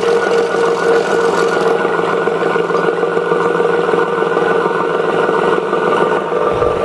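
Conquest 20-inch disc sander's single-phase motor running steadily in forward, a constant hum and whine with no change in pitch. It runs fine despite a cracked rear casing and a damaged fan.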